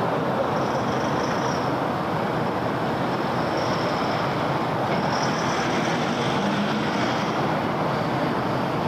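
Steady city road traffic: a continuous wash of car engine and tyre noise, with faint high-pitched whines coming and going above it.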